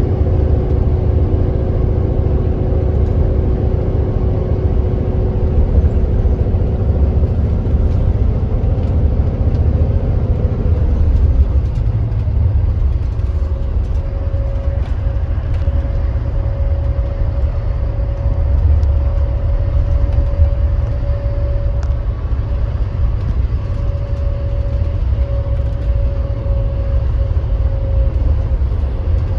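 Kia Granbird Sunshine coach running at speed: a steady, loud low rumble of engine and road. A faint whine sits on top, shifting in pitch around the middle.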